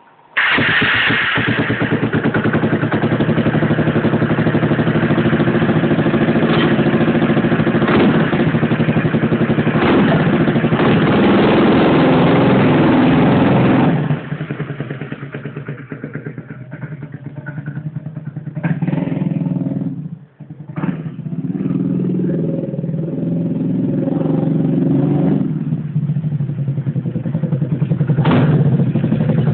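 Yamaha Majesty 250 single-cylinder four-stroke engine, swapped into a BW'S 50 scooter and fitted with an aftermarket muffler, catching right at the start and running. It runs loud and fast for the first half, drops back to a lower idle about halfway, and briefly drops out about two-thirds of the way through before picking up again.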